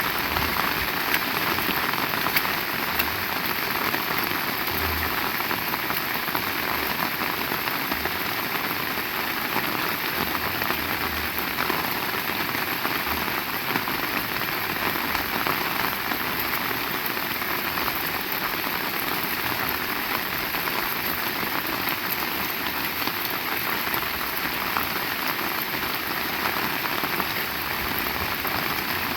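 Heavy rain falling steadily, a dense even hiss with many small drop ticks spattering on surfaces.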